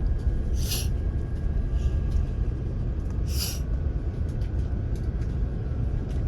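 Airliner cabin noise: a steady low rumble of the jet's engines heard from inside the cabin. Two brief hissy sounds come about a second in and again about three and a half seconds in.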